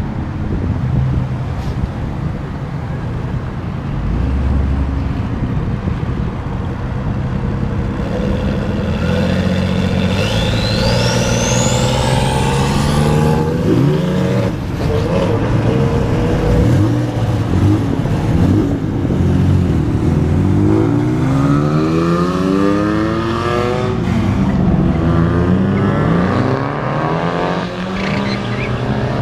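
Several cars driving off one after another, their loud exhausts running under throttle. Engines rev up with a rising pitch about a third of the way in and again past the middle.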